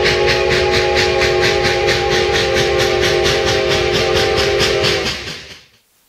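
Sound system of an O-gauge model steam locomotive: steady chuffing at about five beats a second with a chord steam whistle held over it, both fading out near the end.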